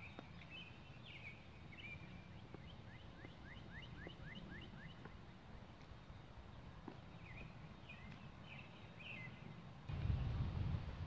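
Small birds chirping: scattered chirps and a quick run of rising notes, about five a second. A low rumble underneath grows louder near the end.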